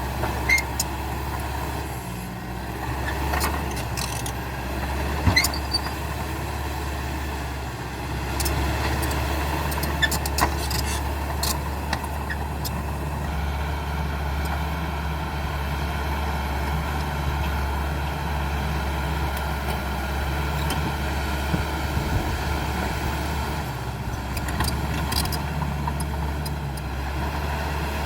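CAT D5K XL bulldozer's diesel engine running steadily under work, with scattered sharp clanks and cracks, most of them in the first half and a few more near the end.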